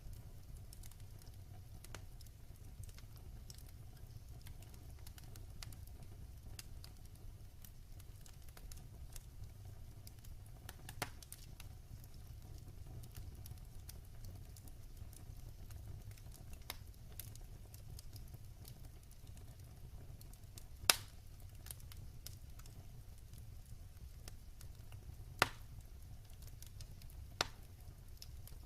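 Wood fire crackling in a fireplace: a low steady rumble with scattered small ticks and a few louder sharp pops, the loudest about two-thirds of the way through.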